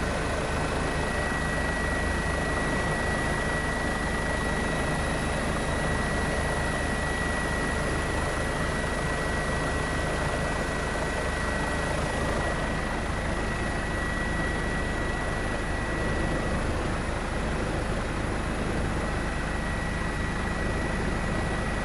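Helicopter running steadily, an even engine and rotor noise with a thin steady whine.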